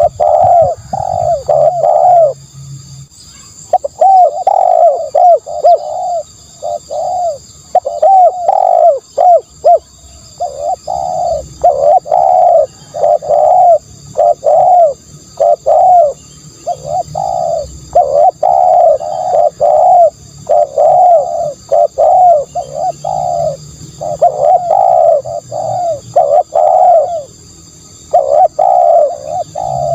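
Spotted dove cooing over and over in short phrases of three or four coos with brief pauses between, a decoy call for luring doves.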